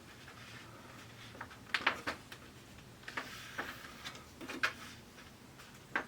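Scattered light clicks and crinkles of handling as a thin white reflector sheet is worked loose and lifted out of an LCD TV's backlight panel.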